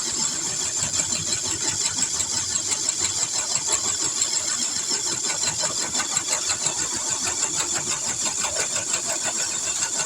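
Electric drivetrain of an RC pulling truck with portal axles running under load as it drags a pulling sled: a steady high-pitched motor and gear whine over a fast, even rattling chatter.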